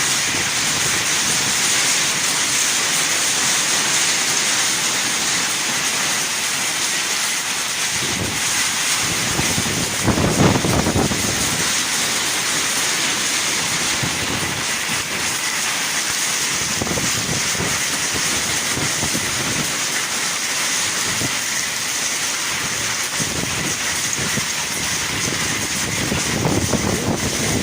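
Hailstorm: hail and heavy rain pelting down in a steady hiss, with a brief louder swell about ten seconds in.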